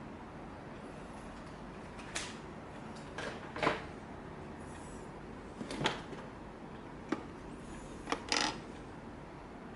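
A few short knocks and rustles of a box and its packaging being handled, about five in all and spread out, over a steady background hiss.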